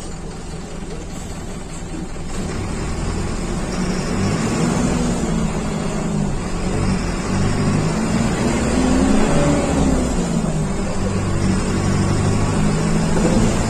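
Mercedes-Benz OF 1721 bus's diesel engine accelerating, pitch climbing and then dropping back as it shifts through the gears, getting louder as it goes.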